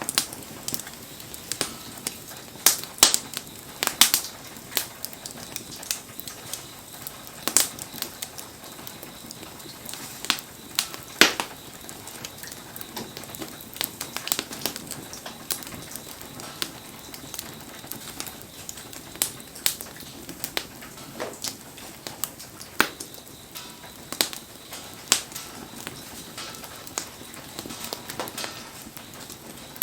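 Wood campfire crackling, with irregular sharp pops of burning wood over a steady hiss of rain.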